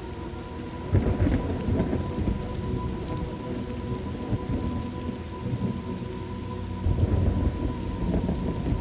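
Thunderstorm ambience: steady rain with thunder rumbling, once about a second in and again near the end.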